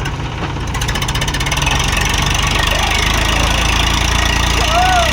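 Tractor diesel engine running steadily, gradually getting louder.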